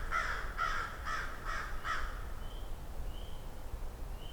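Crow cawing, a quick run of about six harsh caws in the first two seconds, followed by a few faint short high notes.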